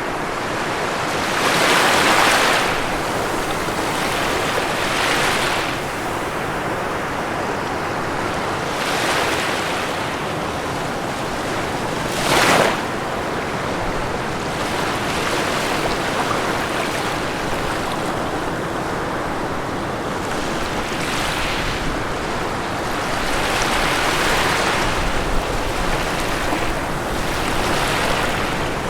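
Ocean waves breaking on a shore over a steady rush of surf, with a wave surging every few seconds; one short, sharp break about twelve seconds in.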